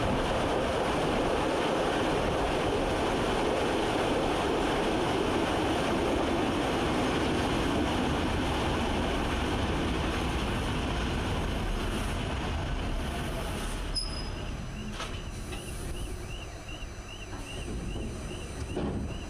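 Commuter train running on the rails, heard inside the driver's cab: a steady rumble of wheels and running gear that dies down from about twelve seconds in as the train slows. Near the end come a few sharp clicks and a fast repeating high chirp.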